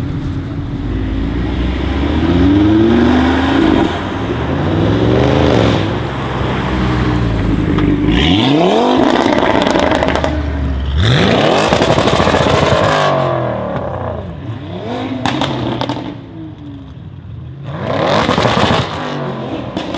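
Audi RS3 8V's turbocharged 2.5-litre five-cylinder engine, breathing through a full Armytrix exhaust, revving hard several times, its note climbing and falling. There are two steep climbs near the middle and another near the end. A few sharp crackles come as the revs drop, about three quarters of the way in.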